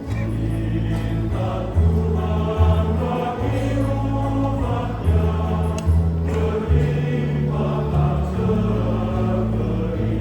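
Choir singing a hymn in Indonesian, the voices in several parts over sustained low bass notes that change every second or two.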